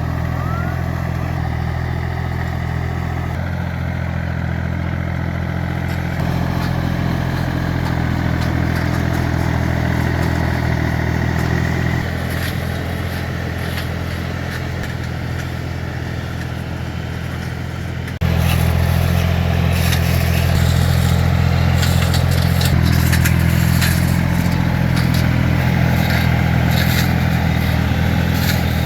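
Engine of a two-wheel walking tractor (agrimotor) running steadily, its note shifting in steps a few times. About eighteen seconds in it suddenly gets louder, with rattling and clatter added on top.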